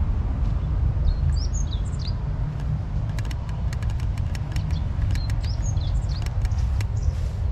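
Small bird chirps in two brief flurries of quick, gliding high notes, with a run of short clicks between them, over a steady low rumble.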